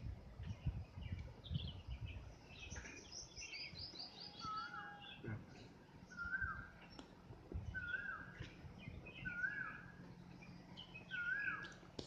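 Birds calling: one bird repeats a short rising-and-falling call about every one and a half seconds, and there is a quick run of higher chirps in the first half. Low knocks come in the first couple of seconds.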